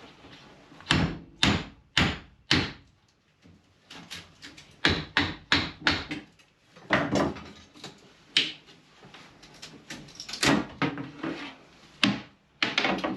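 Repeated sharp knocks and bangs at irregular intervals, some coming in quick runs of three or four, as a stubborn fitting is worked at by hand.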